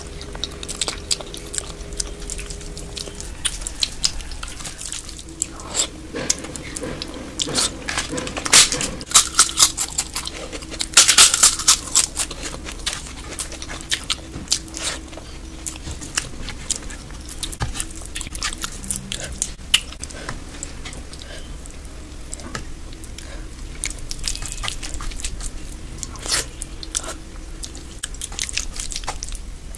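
Close-miked eating sounds of someone eating dal khichdi and curry by hand: wet mouth clicks and chewing with the occasional crunch. A denser run of louder crunchy clicks comes between about eight and twelve seconds in.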